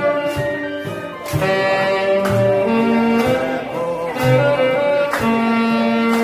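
Saxophone playing a melody of long held notes over an accompaniment with a regular bass beat.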